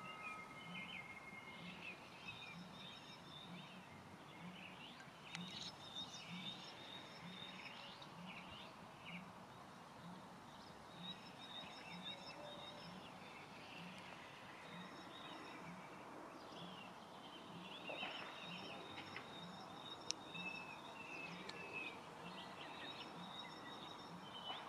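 Songbirds chirping and trilling in short, overlapping phrases, faint, over a soft low pulse repeating about one and a half times a second.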